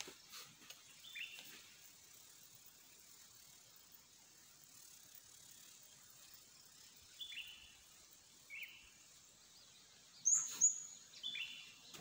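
Short high-pitched bird calls, each a brief note dropping in pitch, heard four times over a faint steady hiss, with two louder, sharper calls near the end.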